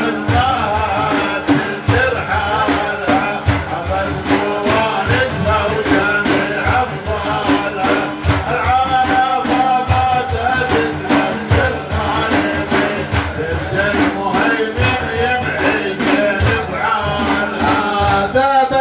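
Frame drums of a Sufi dhikr beating a steady rhythm, with voices singing a wavering melody over them.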